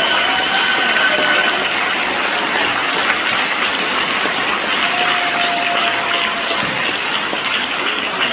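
Large audience applauding in a standing ovation: steady, dense clapping with a few short cheers over it.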